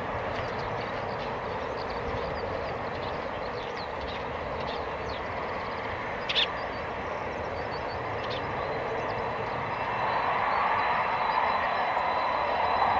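Boeing 737-800 jet engines running with a steady rushing noise and a thin high whine, growing louder about ten seconds in. A short sharp sound about six seconds in.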